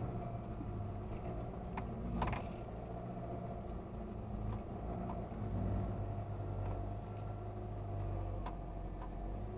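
A car's engine running at low speed, heard from inside the cabin as a steady low rumble. Scattered short clicks and knocks come over it, the sharpest about two seconds in.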